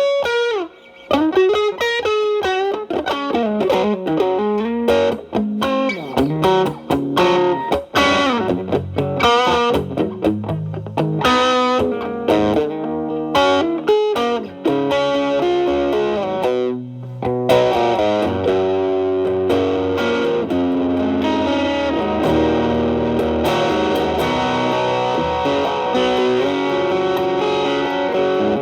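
Telecaster with alnico single-coil pickups played through an MXR Distortion+ (distortion knob at about 10 to 11) stacked with a Boss SD-1 into a Marshall Valvestate amp's clean channel, giving an overdriven electric guitar tone. It plays blues-style lead lines with string bends and quick runs, then moves into denser held notes and double-stops.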